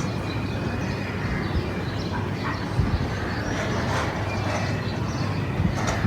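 Birds calling in short scattered bursts over a steady low rumble, with a few brief knocks.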